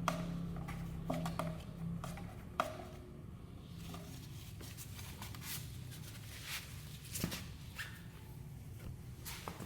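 Scattered light clicks and small knocks of tools and parts being handled, over a steady low hum.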